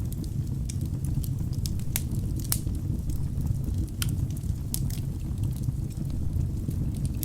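Wood fire burning in a fireplace: a steady low rumble of flames with frequent irregular crackles and pops from the burning logs, a few sharper pops standing out.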